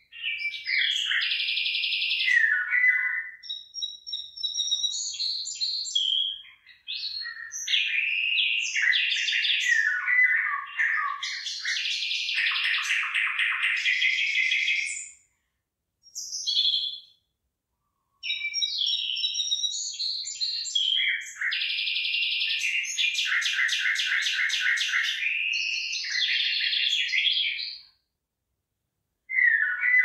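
Songbird singing long, varied phrases of chirps and whistles, with rapid trills, in stretches broken by brief silences.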